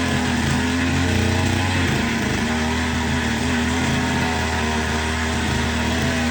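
Small engine of a mini tractor running steadily, its pitch holding even with a slight change in tone about two seconds in.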